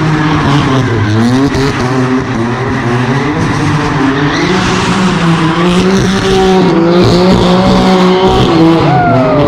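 Car engines revving hard, their pitch climbing and dropping again and again, over a steady rush of tyre and crowd noise; near the end one engine's pitch falls away.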